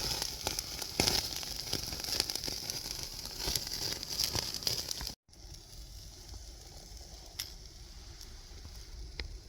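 Steaks sizzling on a grill over a Bushbox XL camp stove, with crackling pops. After a cut about five seconds in the sizzle goes on quieter, with a few separate pops.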